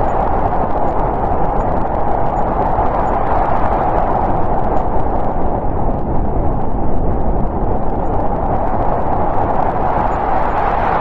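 Snowstorm wind blowing steadily, a deep rushing howl that swells and eases slightly.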